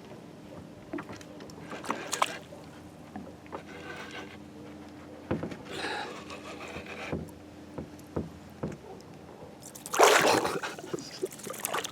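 Irregular knocks, rubbing and water sounds in a kayak while a northern pike is fought on the line, with a few sharp clicks. The loudest burst comes near the end.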